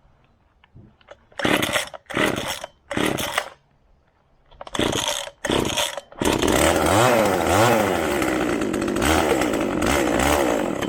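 Two-stroke chainsaw being pull-started: several short pulls of the starter cord, then the engine catches about six seconds in and runs, revving up and down, before stopping abruptly at the end.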